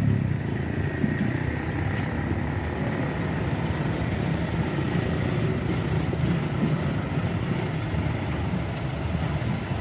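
Heavy truck engine running steadily at a low, even rumble.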